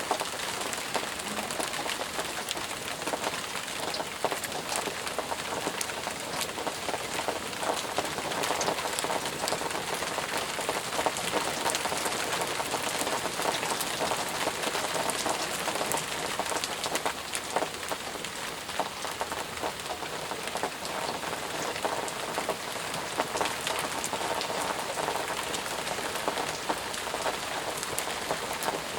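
Steady, heavy rain with many close drops pattering on surfaces.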